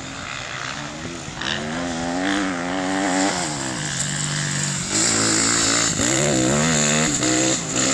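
Off-road racing engine revving hard, its pitch climbing and falling twice as the machine accelerates and shifts, over the steady drone of other race engines.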